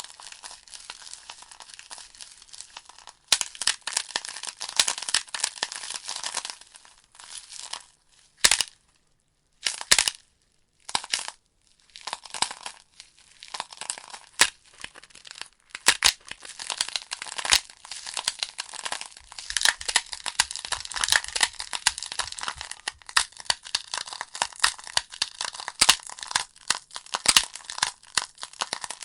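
Logs burning in a fireplace, the wood crackling and popping in a dense, irregular run of sharp snaps. About a third of the way in the crackling thins to a few isolated pops with brief silent gaps, then picks up again.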